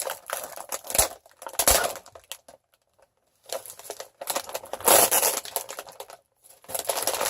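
Plastic cookie package crinkling and tearing in bursts as a pack of Oreos is opened, with a short pause about two and a half seconds in.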